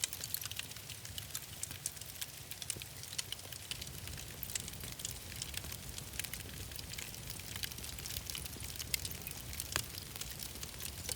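Wood fire crackling in a fireplace, with irregular sharp pops and snaps over a steady low rumble of the flames.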